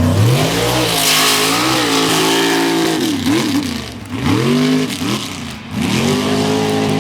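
Supercharged mega truck engine revved hard at wide open throttle, its pitch rising and falling several times, with brief dips in loudness about four seconds in and again just before six seconds.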